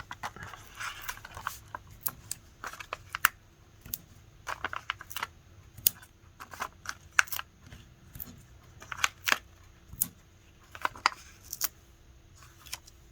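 A string of small, irregular clicks and scratchy rasps from hands handling paper and foam adhesive squares (Stampin' Dimensionals) as they are peeled off their sheet and pressed onto a cardstock panel.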